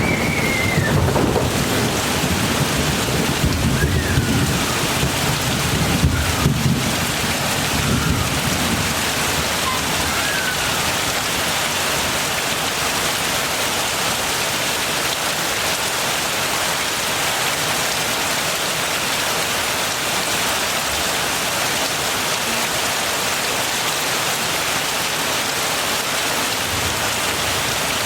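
Heavy rain falling in a steady hiss, with a low rumble of thunder that dies away after about eight seconds. A few faint short chirps sound through the rain early on.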